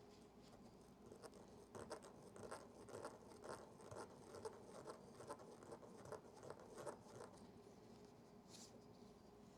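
Faint scratching strokes, two to three a second for several seconds, as the pitted, corroded battery-compartment contact of a Yashica Electro 35 GSN camera is scrubbed clean. One brief hiss follows near the end.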